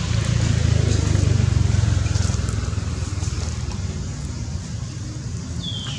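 Low rumble of a passing motor vehicle, swelling over the first two seconds and then easing off. A short high chirp falls away near the end.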